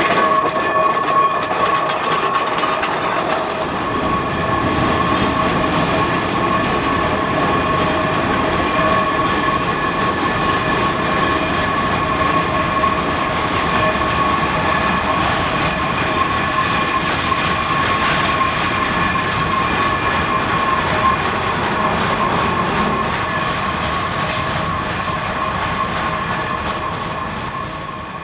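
A geared steam locomotive working with its train, rail noise and running gear heard steadily, with a steady high whine through it. It eases off a little near the end.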